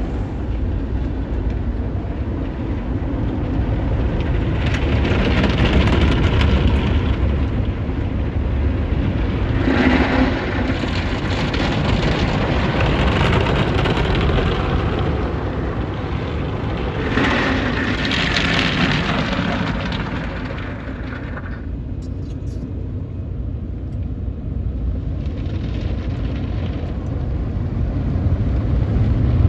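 Automatic car wash working over a car: a steady low rumble with a hissing wash of water spray and scrubbing that swells and fades several times.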